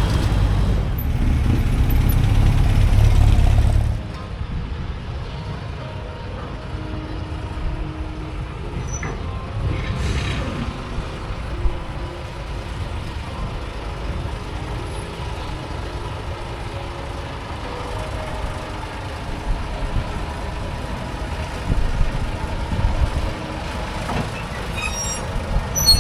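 Low, steady rumble of a vehicle engine running, loud for about the first four seconds, then dropping suddenly to a quieter rumble with a few faint knocks.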